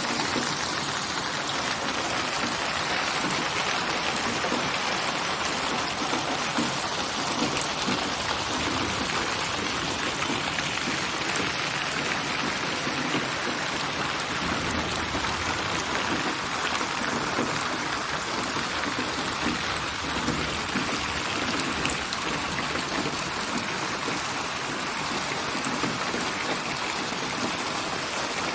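Steady rain falling: an even hiss with small, scattered ticks of drops.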